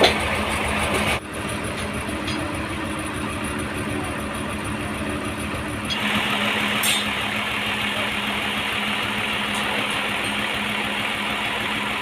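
Sawmill engine running steadily with a constant hum; about six seconds in a brighter hiss joins it and carries on.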